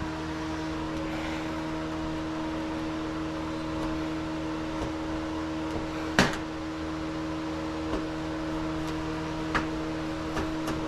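Steady mechanical hum from a running appliance such as a fan or air conditioner. A single sharp click comes about six seconds in, and a few faint ticks follow.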